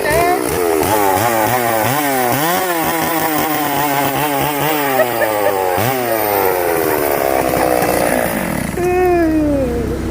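Two-stroke chainsaw engine being revved up and down over and over, its pitch rising and falling with each blip of the throttle, then winding down near the end.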